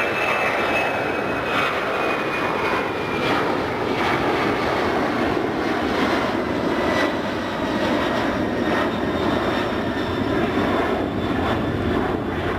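Jet airliner passing close, its engines giving a loud, steady rush with a high whine that slowly falls in pitch as it goes by.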